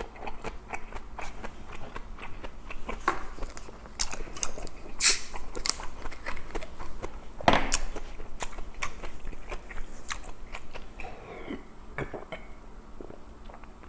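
Close-miked chewing of a mouthful of food: irregular wet clicks, smacks and crunches, with two louder snaps about five and seven and a half seconds in. Near the end, gulps of water drunk from a plastic bottle.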